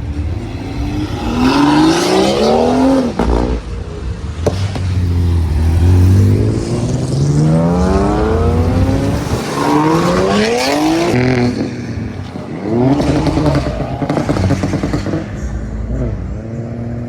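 A car engine revved hard several times, its pitch climbing and dropping back with each rev, then settling to a steady run near the end.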